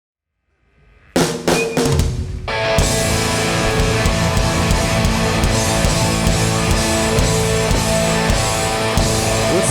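A live hardcore band starting up at loud volume, drums and distorted guitars. A few separate crashing hits come about a second in, then the whole band plays steadily from about three seconds in.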